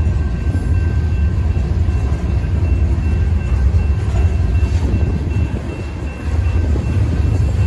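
Ballast train's gondola cars rolling past over the crossing: a steady, heavy low rumble of wheels on rail, with a faint steady high tone above it.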